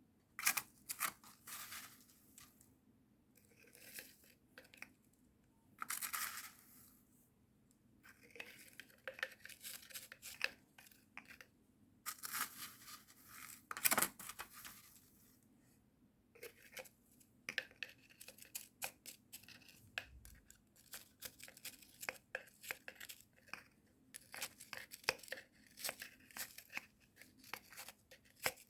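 Carbonized rice husk being spread into a small plastic container: dry, grainy rustling in irregular bursts, with many light clicks and scrapes as the granules fall and are moved about.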